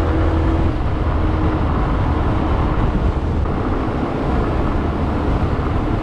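150cc GY6 scooter's single-cylinder four-stroke engine and CVT running steadily while riding, with a steady low drone. The freshly rebuilt top end runs without the tapping, clicking sound it had before.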